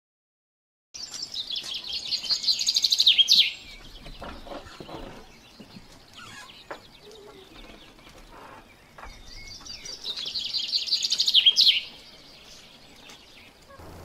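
A songbird singing two songs about eight seconds apart, the first starting about a second in. Each is a fast, high trill of about two and a half seconds that grows louder and ends in a quick downward flourish. Fainter scattered outdoor sounds fill the gap between them.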